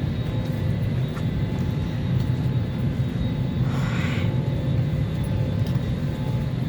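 Steady low drone inside an Airbus airliner's cabin during boarding, from the air-conditioning and ventilation running, with a few faint steady whines over it. There is a short hiss about four seconds in.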